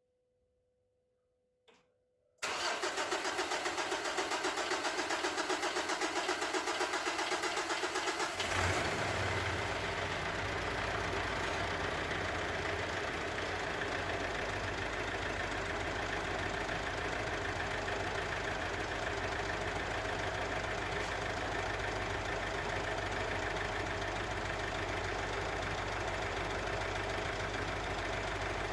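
Mitsubishi Pajero engine being cranked by the starter with an even pulsing rhythm for about six seconds, then catching and settling into a steady idle. This is its first start after the valve cover and rocker work.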